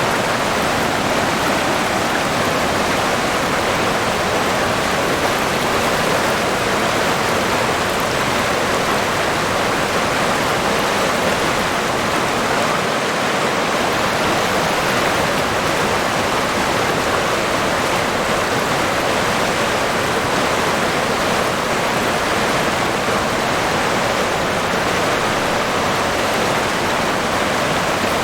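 River water flowing in a steady, even rush, with no breaks or changes.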